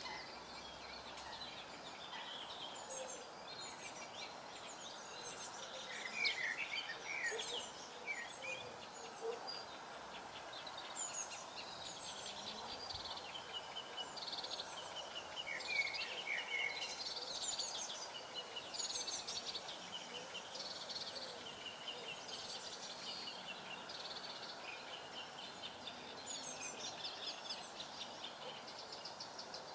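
Several wild birds singing and chirping together. A louder song phrase stands out twice, about six seconds in and again around sixteen seconds.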